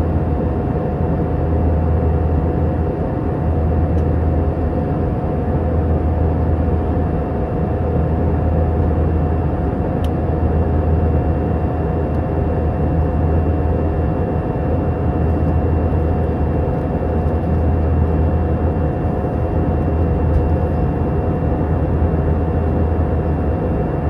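Steady cabin noise inside an Airbus A319 in flight: a constant low drone of the engines and rushing air, with a faint steady whine.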